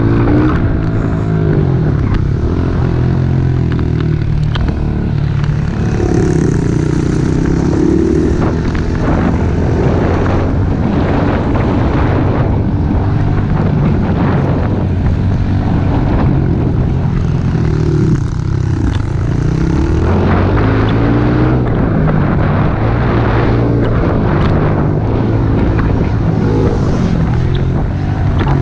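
Small single-cylinder four-stroke pit bike engine being ridden hard, its revs rising and falling again and again with throttle and gear changes, over a steady low rumble.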